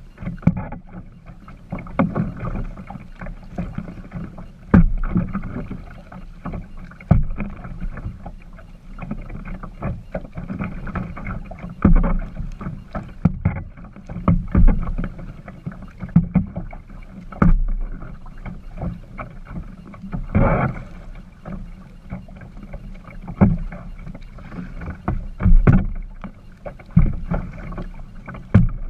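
A kayak being paddled: water splashing and trickling from the paddle, with sharp knocks every two to three seconds and a longer swell of splashing about twenty seconds in.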